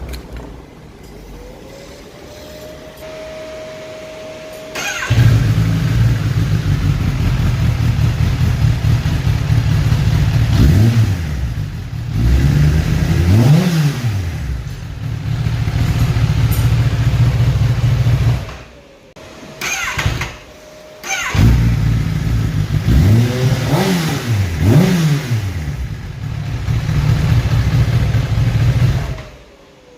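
Kawasaki ZX10R inline-four engine through its stock exhaust, started about five seconds in after a quieter stretch. It idles and is revved several times, each rev rising and falling sharply. It cuts out briefly about two thirds of the way through, runs and revs again, and is shut off near the end.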